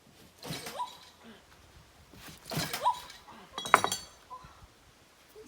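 Three knocks of hard objects being handled and set down, the third a short ringing clink, like glass or metal.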